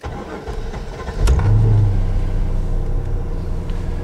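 1998 Chevrolet Corvette C5's 5.7-litre LS1 V8 heard from the cabin, cranking briefly, then catching about a second in with a flare of revs before settling into a steady fast idle: a cold start in freezing weather.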